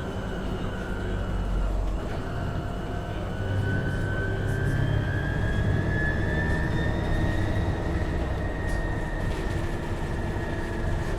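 Inside a MAN Lion's City Hybrid city bus on the move: a whine from the drive climbs slowly in pitch as the bus picks up speed, over a steady low running rumble.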